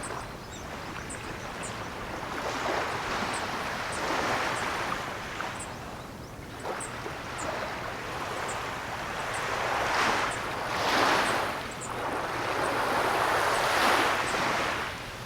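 Ocean surf: waves breaking and washing up the shore in a steady hiss that swells and fades several times. The strongest surges come in the second half.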